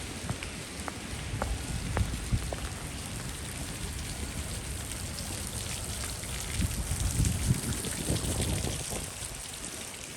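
Rain falling steadily, with scattered individual drops ticking close by. A louder low rumble swells between about six and nine seconds in.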